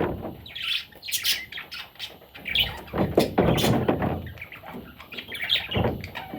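Pet budgerigar chattering, with quick irregular chirps and harsh squawks.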